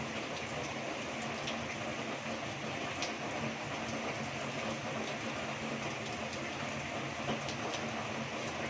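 Heavy rain pouring steadily onto a roof and the ground, a dense even hiss with a few sharper taps of drops. A faint steady low hum runs underneath.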